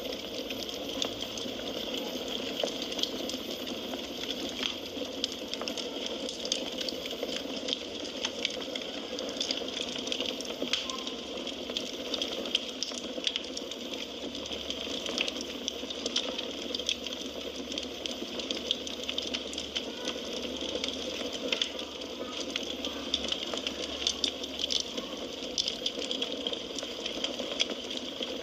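Wood fire crackling, with many small irregular pops and snaps over a steady hiss.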